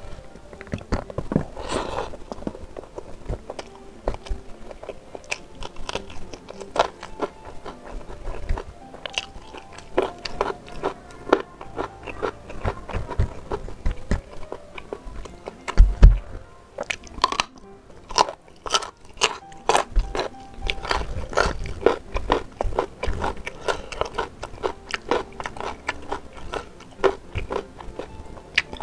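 Close-miked eating: steady chewing and sharp crunching of spicy beef ribs with rice and raw vegetables, with a loud low thump about sixteen seconds in.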